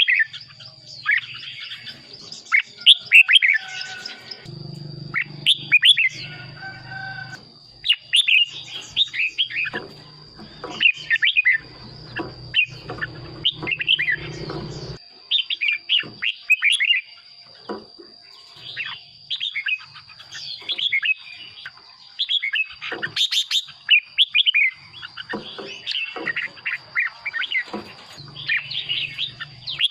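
Red-whiskered bulbul singing: bright, warbled phrases of quick up-and-down notes, one after another with short gaps. A faint steady high-pitched tone runs underneath.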